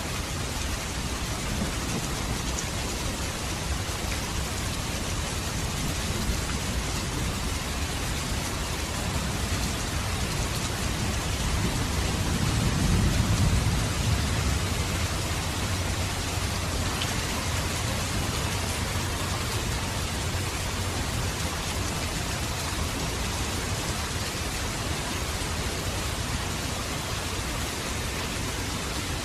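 Steady heavy rain falling, with a low rumble of thunder swelling up and fading away about halfway through.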